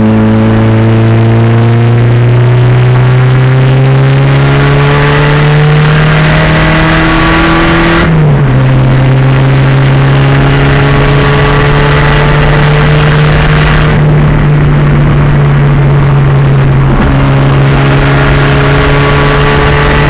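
Pontiac Fiero race car's turbocharged 2.0-litre engine pulling under load, its pitch climbing slowly through a gear. About eight seconds in the pitch drops at an upshift, and the engine then pulls on at a steadier pitch.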